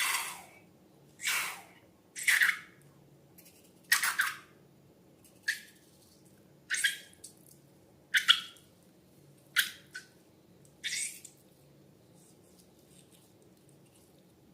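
Slime being squeezed and pressed by hand: a series of about nine short, wet crackling squelches, roughly one every second and a half, stopping about eleven seconds in.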